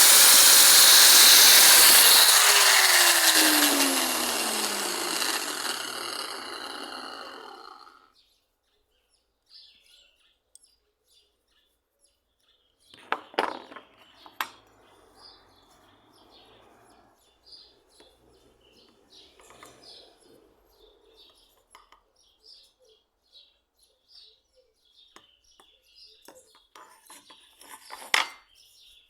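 A power tool running with a loud hiss is switched off and winds down, its pitch falling steadily over a few seconds until it stops. Then come faint bird chirps and a few sharp knocks and handling sounds on the workbench.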